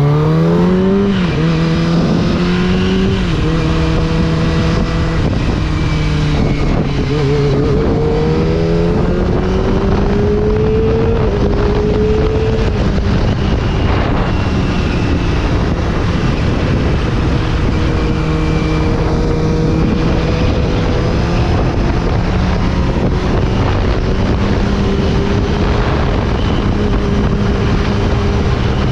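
Kawasaki ZX-25R's inline-four engine, with an Akrapovic racing exhaust, revving up right at the start, then running along at fairly steady revs with a few small dips and rises. Heavy wind rush on the microphone runs under it.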